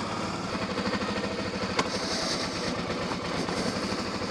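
Suzuki V-Strom 650's V-twin engine running at a steady, unchanging speed, with one sharp click a little under two seconds in.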